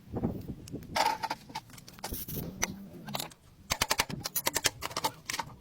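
Tools working on metal: a few irregular sharp knocks, then a fast run of clicks a little past halfway through.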